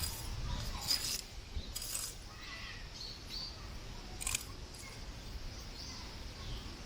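Strong wind buffeting the microphone as a low rumble, easing after the first couple of seconds, with three or four sharp clicks and a few faint high chirps.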